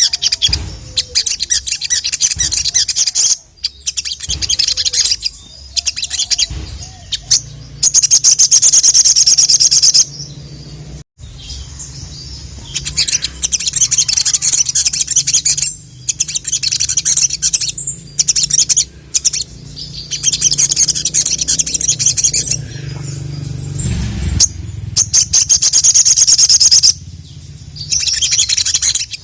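Sogon (sogok ontong, the little spiderhunter) singing in full song: long, loud runs of rapid, high-pitched chattering notes, repeated with short pauses, with a low steady hum underneath through much of it.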